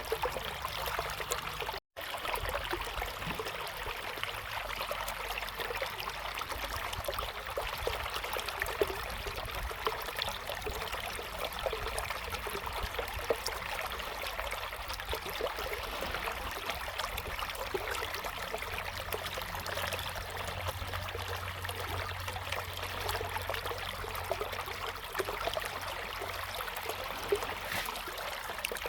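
River water flowing steadily, an even rushing with small trickling splashes. The sound cuts out completely for a split second about two seconds in.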